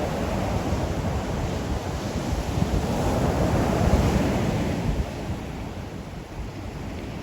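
Ocean waves surging onto the shore, one wash building to a peak about four seconds in and then easing off, with wind buffeting the microphone.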